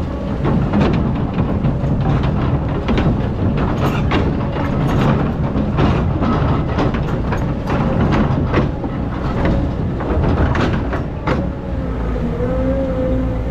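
Excavator's diesel engine running under load, with repeated clanks and scrapes of the bucket biting into hard-packed old sand. A steady whine joins in near the end.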